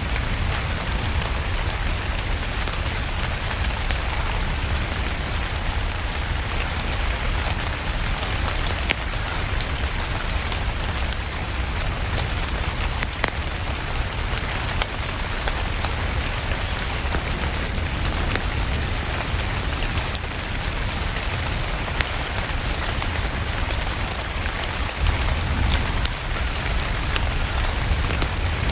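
Steady rain falling, over a low rumble, with a wood fire crackling in scattered sharp clicks.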